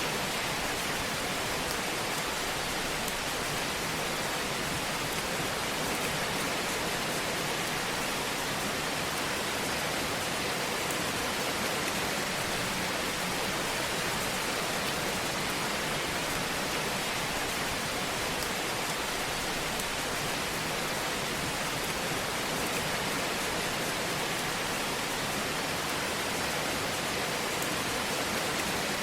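Wood fire burning in a fireplace: a steady hiss with small, faint crackles scattered through it.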